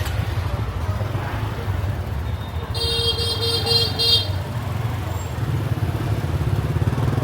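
Steady rumble of city traffic and engines, with a vehicle horn beeping in a quick series of short honks about three seconds in.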